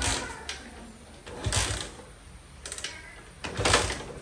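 Metal parts rattling and ratcheting in four short bursts about a second apart, from hand work on a motorcycle during assembly.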